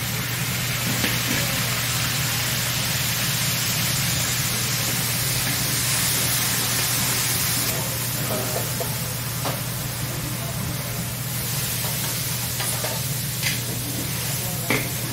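Garlic and chili sauce sizzling in oil in a large steel wok, stirred with a metal wok ladle. The sizzle softens a little about halfway through, and a few short knocks and scrapes of the ladle come in the second half, over a steady low hum.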